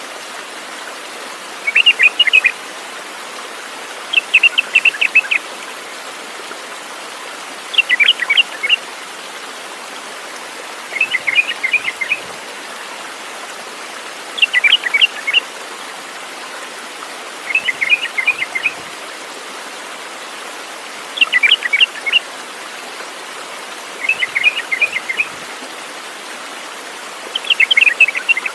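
A songbird singing short phrases of rapid chirping notes, each about a second long, repeated about every three seconds over a steady background hiss.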